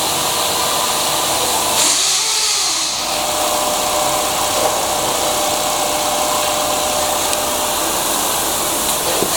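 2001 Subaru Forester's 2.0-litre engine running steadily, with a loud hiss and a thin steady whine over it.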